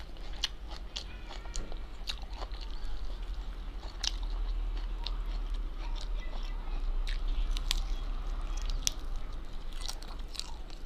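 Close-up mouth sounds of someone biting and chewing crispy fried chicken: irregular crunches and wet clicks, over a steady low hum.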